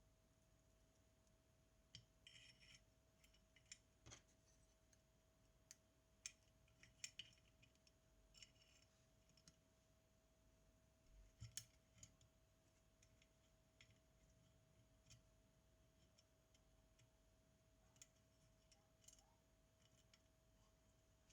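Faint, scattered light clicks and small metallic clinks of tools and small parts being handled while a Zenit TTL film camera is worked on, over a faint steady tone.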